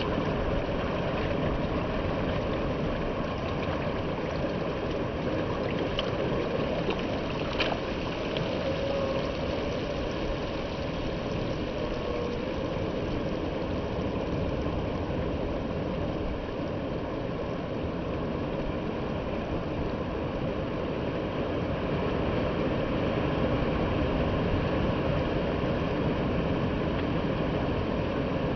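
Steady engine hum mixed with rushing water, as on a moving boat, running evenly throughout.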